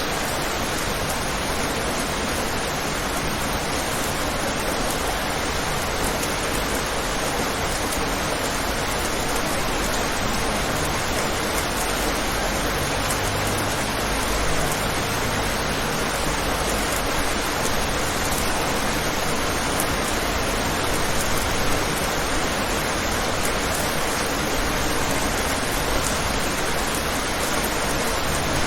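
Steady rain falling and pattering on a window, an even hiss of noise with no distinct drops or thunder standing out.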